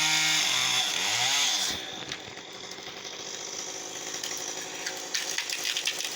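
Chainsaw running at high speed, dipping and revving up and down once more about a second in, then stopping; after that only fainter noise with scattered light clicks.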